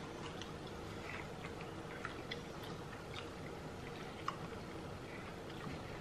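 Quiet eating by hand: soft chewing of spicy goat head (isi ewu), with a few faint clicks of fingers and food, the sharpest about four seconds in.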